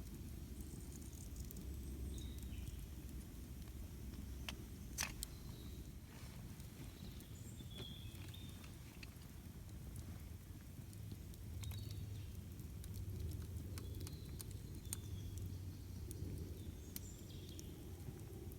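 Campfire burning with scattered sharp crackles and pops, one louder pop about five seconds in, over a low steady rumble. Faint short bird chirps come and go.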